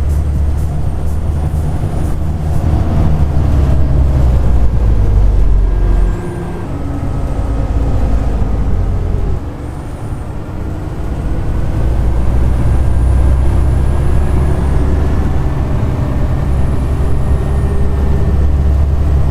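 Volvo B7TL bus's six-cylinder diesel pulling, heard from inside the bus, with a high vacuum-cleaner-like whine (the 'hoover') riding over the engine rumble. The engine eases off twice, about a third and halfway through, then builds again as the bus pulls away.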